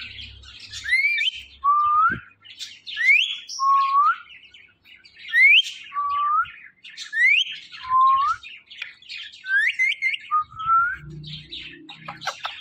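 Pet parrot calling over and over, about every two seconds: a high whistle that sweeps upward, then a lower note that rises at its end, with short chirps in between.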